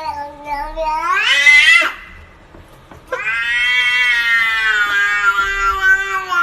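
Domestic cat giving two long, drawn-out yowling meows: the first rises in pitch at its end, the second is held about three seconds, slowly falling.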